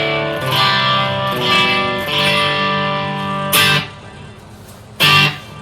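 Clean electric guitar with Filtertron humbucking pickups, played through the amp with the distortion pedal bypassed: ringing chords for the first few seconds, then two short, sharp chord stabs.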